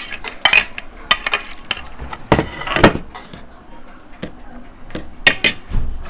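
Forks or spoons clinking and scraping against plates, a string of sharp clicks and knocks that thin out after about three seconds.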